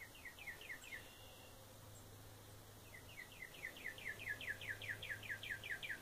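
A bird calling: a rapid run of short downslurred notes, about six a second, first briefly and then in a longer run from about three seconds in that grows louder.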